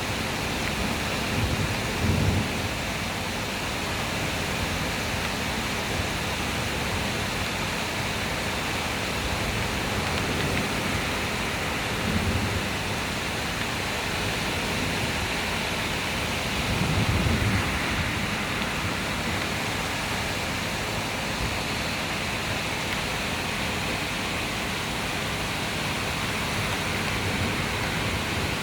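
Heavy rain pouring steadily during a thunderstorm, with a few brief low rumbles about two, twelve and seventeen seconds in.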